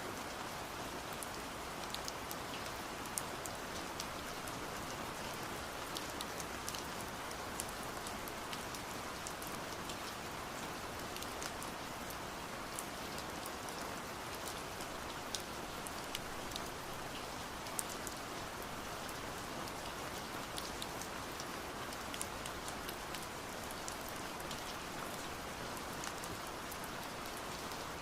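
Steady rain hissing, with scattered sharp taps of drops striking window glass.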